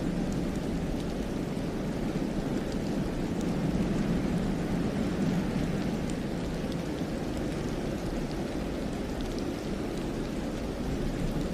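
Steady wind of a snowstorm through a pine forest, a low, even rushing with faint scattered ticks over it.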